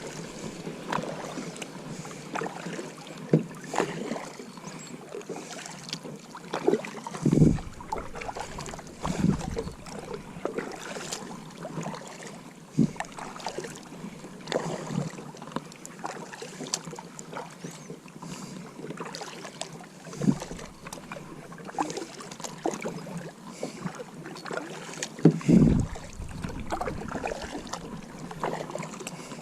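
Kayak being paddled: irregular paddle strokes and water splashes, with a few louder low thumps, the loudest about three-quarters of the way in.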